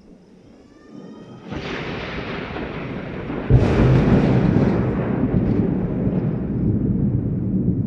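Thunder close by: a rising rumble about a second and a half in, a sudden loud crack about two seconds later, then a long low rolling rumble that slowly fades.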